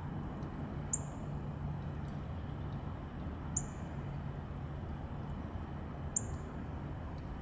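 A small bird's short, very high chirp, given three times about two and a half seconds apart, over a steady low hum.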